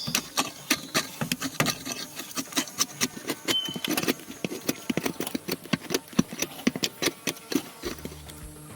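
A quick, irregular run of sharp knocks and clicks, several a second, like hand work with hard objects, with a brief high whistle about three and a half seconds in.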